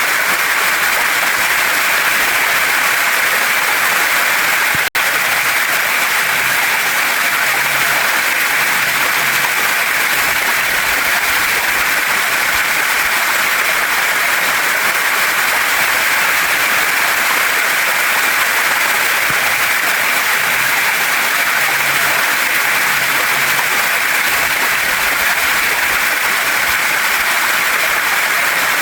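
Waterfall and stream water rushing over rocks: a steady, even hiss with no change in level. The sound drops out for an instant about five seconds in.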